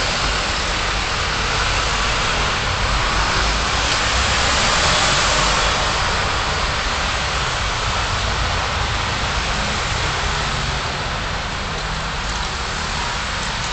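Car on the move, heard from inside: a steady rush of tyre and road noise over a low engine rumble, a little louder about four to six seconds in.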